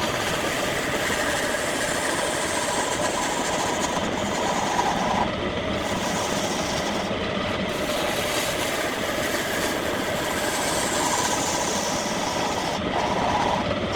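Wood lathe running steadily, with a turning tool cutting into the spinning wood. The cutting sound breaks off briefly a few times.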